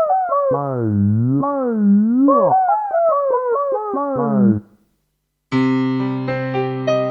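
Kurzweil K2500R synthesizer playing factory presets with no effects. First a lead sound with deep, wide vibrato and swooping pitch plays a melody and stops about four and a half seconds in. After a short gap a new keyboard-like preset holds a chord, with notes changing on top.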